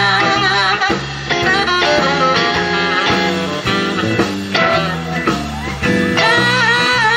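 A band playing a blues number, with guitar to the fore and notes that bend in pitch.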